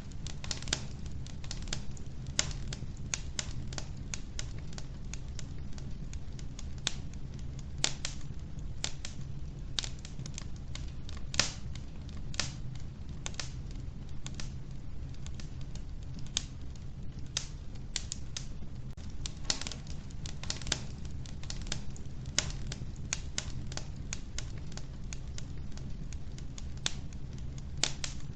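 Wood fire burning in a wood-burning stove: a steady low rumble with sharp, irregular crackles and pops from the logs, a few louder snaps among them.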